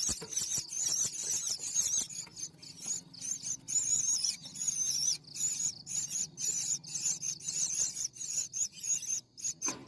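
High-pitched insects, such as crickets, chirping in rapid, pulsed trills that keep going without a break.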